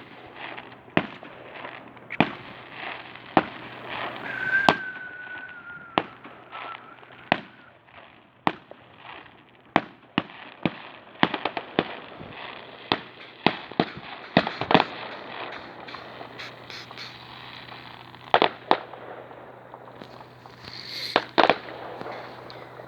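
Fireworks display: shells bursting in sharp bangs at irregular intervals, with quick runs of crackling cracks in the middle and again near the end. A brief wavering whistle sounds about four to five seconds in.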